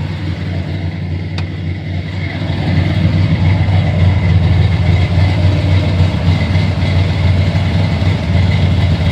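Corvette engine idling steadily, the drone growing louder about two and a half seconds in.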